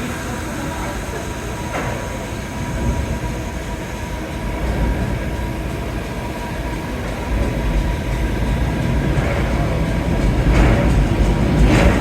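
Subway train running on the rails, a steady low rumble that grows louder toward the end, with a few sharp clicks near the end.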